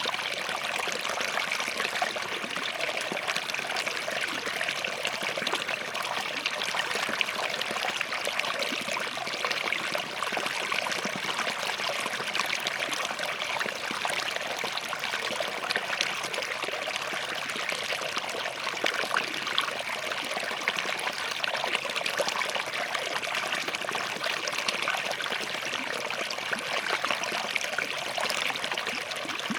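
Small forest stream flowing and trickling between rocks, a steady, unbroken babble of water with fine splashing detail.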